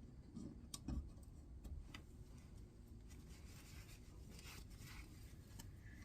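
Faint handling noises at a workbench: a few light clicks in the first two seconds, then soft rubbing, as tools and rifle parts are handled.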